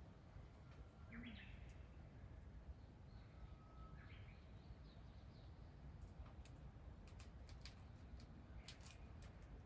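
Quiet outdoor ambience with a steady low rumble, two faint bird chirps about one and four seconds in, and a scatter of small light clicks in the second half.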